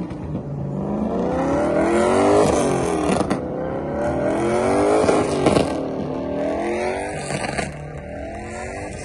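Car engine revving hard in repeated cycles, its pitch sweeping up and back down about every two and a half seconds, like a car circling close by under power.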